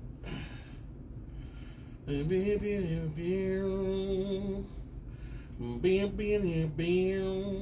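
A man humming two long wordless phrases, each sliding up into a steady held note.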